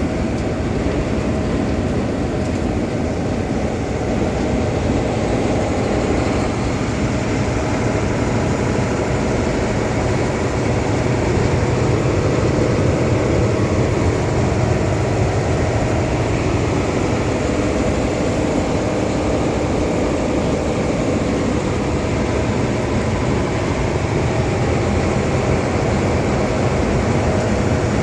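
Semi truck driving down the road: a steady drone of engine and road noise with no changes.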